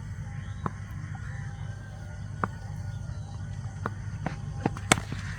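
Steady low hum with about six sharp, scattered clicks spread through it.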